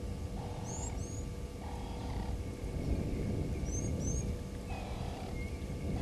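Bush waterhole ambience: a steady low rumble, with a bird repeating a pair of quick high rising whistles about every three seconds and a few short mid-pitched hums in between.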